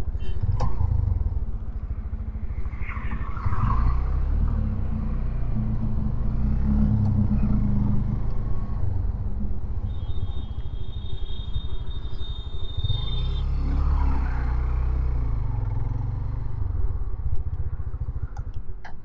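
Hero Xtreme 125R's single-cylinder engine running at low speed with wind buffeting the helmet microphone, its pitch rising twice as the bike accelerates.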